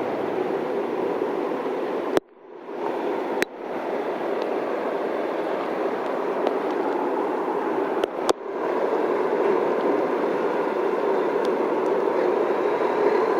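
Heavy tropical rain pouring down in a steady, dense hiss. The sound cuts out briefly twice, with sharp clicks, about two seconds in and again about eight seconds in.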